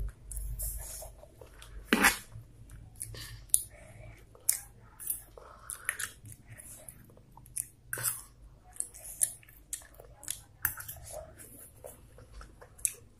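Close-up chewing and mouth sounds of someone eating fried instant noodles: irregular wet smacks and clicks, the sharpest about two seconds in.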